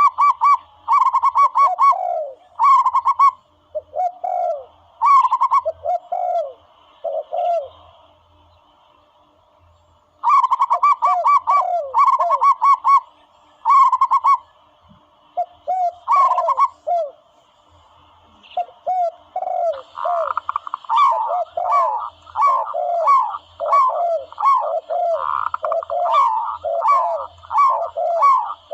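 Zebra doves calling: quick runs of short, staccato cooing notes, two voices at different pitches overlapping. The calling comes in bursts with a pause of about two seconds roughly a third of the way in, and runs almost without a break in the last third.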